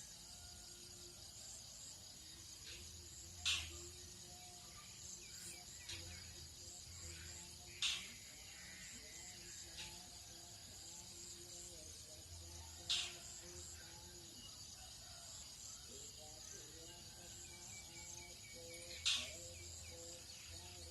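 Dawn chorus of crickets and other insects, a steady high pulsing hum. Four sharp, short calls stand out over it at uneven intervals of about four to six seconds.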